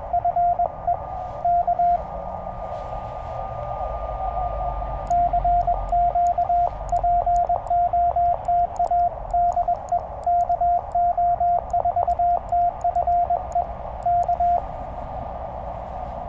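Morse code from a Penntek TR-35 QRP transceiver: a steady mid-pitched tone keyed in dots and dashes. About two seconds in, the keying stops for a few seconds of receiver band hiss with a faint steady tone. The keying then resumes, and it breaks into hiss again near the end.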